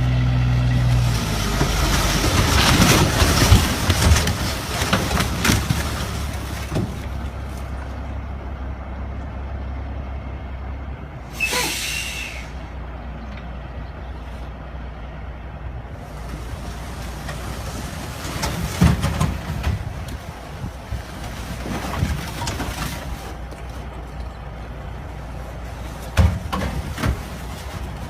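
Heavy truck and road noise from crash footage. An engine is running, and there is loud rough noise over the first seven seconds. A short sharp hiss comes about eleven and a half seconds in, and a couple of sharp knocks near the end.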